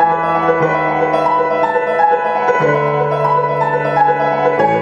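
Solo piano playing a passage between sung verses, with bass notes changing about every one to two seconds under sustained chords.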